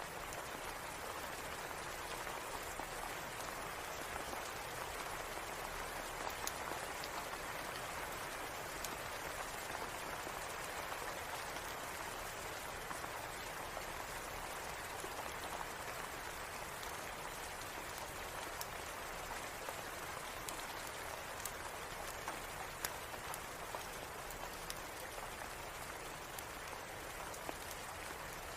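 Steady rain falling and pattering on surfaces, an even hiss with scattered sharp ticks throughout.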